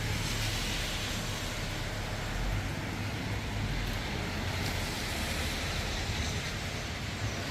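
Steady hiss of rain with a low rumble of wind on the microphone.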